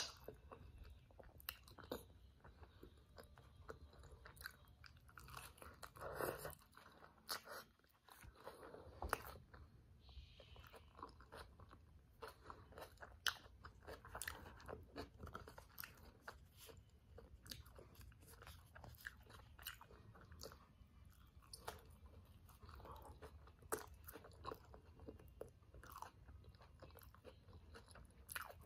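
Chewing and biting a grilled tortilla wrap filled with black beans and vegetables: soft crunches and many short crisp clicks, with a bite right at the start.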